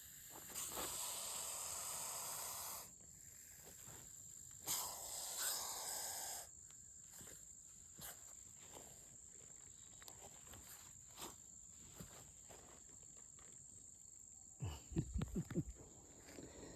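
Eastern hognose snake hissing in defence: two long, forceful hisses, one about a second in and another about five seconds in, each lasting around two seconds. A steady high insect trill runs behind.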